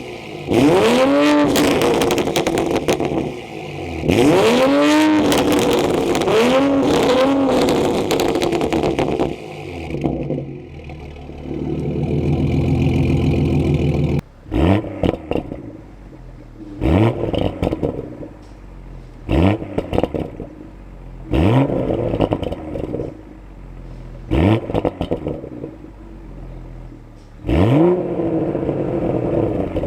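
Toyota Supra engine and exhaust revved while standing: several long revs that climb and fall back, a few seconds of steady idle, then a series of short, sharp throttle blips about every two and a half seconds.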